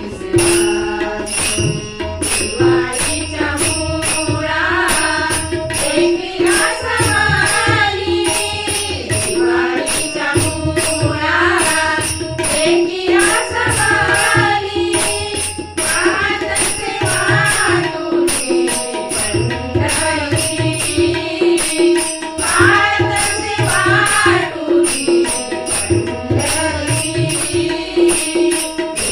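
A Marathi abhang sung by women's voices, accompanied by harmonium, tabla and taal (small hand cymbals) ticking a steady beat.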